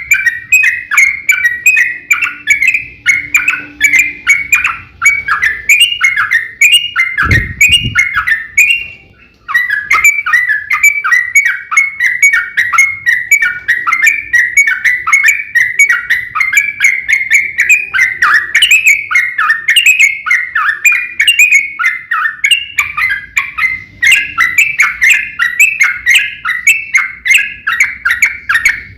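Yellow-vented bulbul (trucukan) singing a long, rapid run of repeated chattering notes, several a second, in the excited 'gacor' fighting style. The song breaks off briefly about nine seconds in. There is a dull low thump shortly before that.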